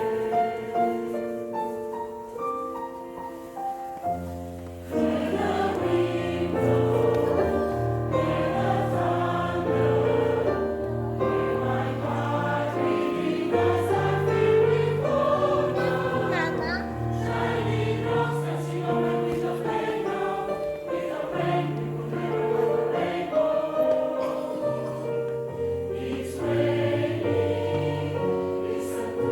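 Choir singing slow, held chords. About five seconds in a low part comes in and the sound grows fuller and louder.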